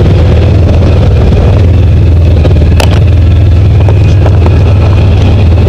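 Side-by-side UTV's engine running steadily as it drives along a trail, heard from the passenger seat as a loud, low, even drone. A single sharp knock comes a little under three seconds in.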